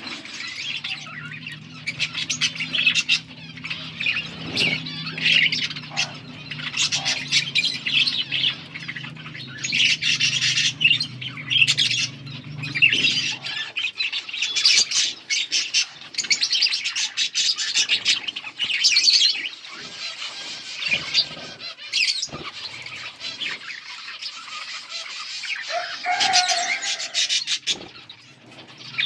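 Budgerigars chirping and warbling continuously, several birds at once, with scattered short clicks. A low steady hum runs underneath and stops about halfway through.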